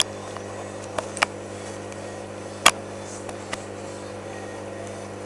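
Washing machine running with a steady hum, broken by a few sharp clicks, the loudest about two and a half seconds in.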